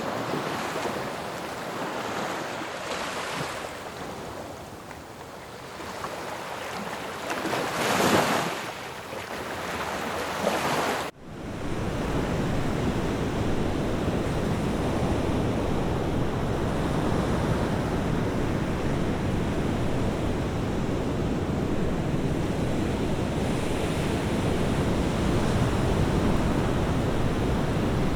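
Sea waves breaking on a shore, swelling and ebbing, with one loud wave crash about 8 seconds in. About 11 seconds in the sound cuts abruptly to a steady, deeper, continuous rush of surf.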